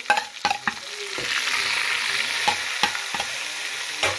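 A metal spoon clinks several times against the plate and the metal pot as tomatoes and spices go into chicken frying in oil. About a second in, the sizzle rises and carries on steadily while the spoon stirs, clinking now and then.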